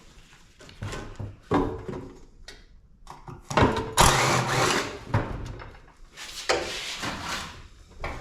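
Irregular knocks, clanks and scrapes of sheet-metal parts of an air-conditioning unit being handled and pried apart, in separate bursts a second or so apart, the loudest about four seconds in.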